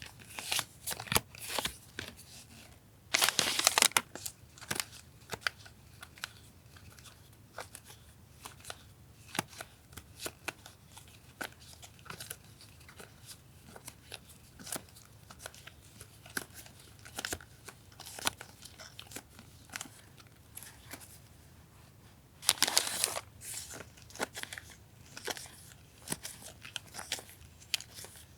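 Paper stationery and its packaging being handled and sorted: a run of soft rustles, crinkles and small taps, with two louder bursts of rustling about three seconds in and again about twenty-two seconds in.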